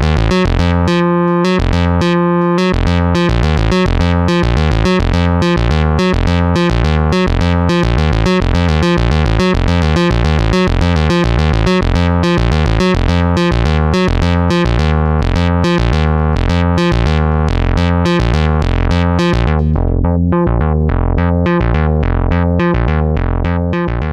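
AJH Synth MiniMod analog synth voice playing a fast, continuous sequenced melody over a bass line, the notes generated by a Vermona meloDICER stochastic sequencer. About 20 seconds in the sound turns duller, as if the filter closes, and it fades out at the very end.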